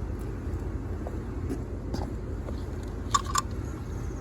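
Two short metallic clinks close together about three seconds in, with a brief ring, as the steel fan puller and tools are fitted onto the generator's fan hub. A steady low rumble runs underneath.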